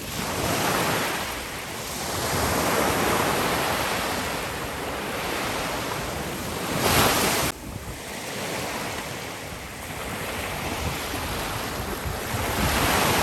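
Sea surf: waves breaking and washing up the beach in successive swells. The sound drops off suddenly about seven and a half seconds in.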